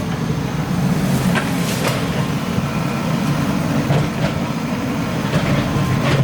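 Excavator at work: its diesel engine runs steadily with a low rumble, and scattered metallic clanks and scrapes come from the arm and bucket.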